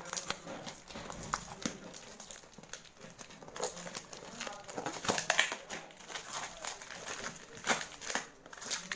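Packaging crinkling and rustling while a parcel is handled and unwrapped, with irregular sharp clicks and knocks; the loudest come a little past the middle and near the end.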